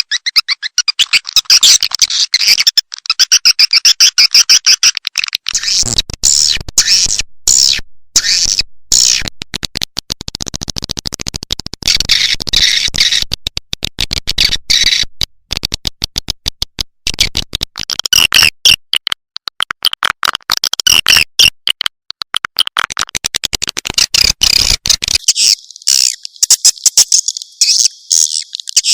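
Recorded swiftlet calls played as a lure track for swiftlet houses: rapid, dense, high-pitched chirping and twittering, repeated without pause.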